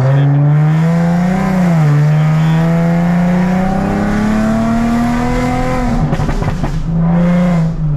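Nissan 370Z's 3.7-litre V6 through a straight-piped exhaust (muffler and resonator deleted, catalytic converters replaced by test pipes), loud, revving up under acceleration with a brief rise and fall about two seconds in, then climbing steadily. Near the end of the climb the throttle lifts and the exhaust pops and crackles for under a second before the engine settles.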